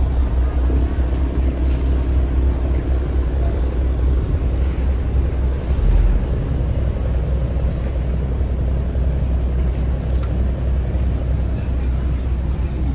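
A river tourist boat's engine running steadily under way, a continuous low rumble with the wash of water and air around the hull.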